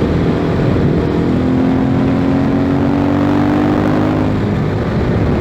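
KTM 690 Enduro R's single-cylinder engine running through an FMF slip-on exhaust while riding, its pitch rising slowly from about a second in to near the four-second mark, over a steady rush of noise.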